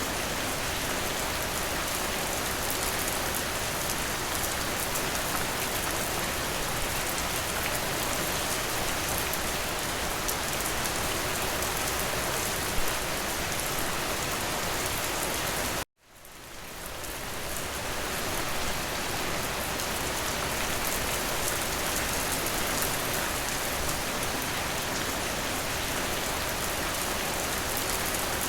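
Steady rain falling. A little over halfway through, it cuts out suddenly and fades back in over about two seconds.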